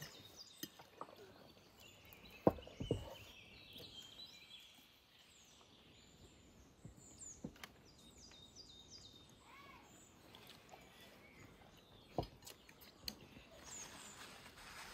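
Songbirds chirping and singing faintly, with a few sharp knocks scattered through, the loudest about two and a half seconds in.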